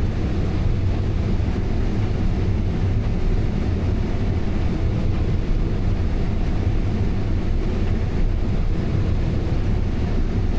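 Combine harvester running steadily while harvesting corn: a constant low drone.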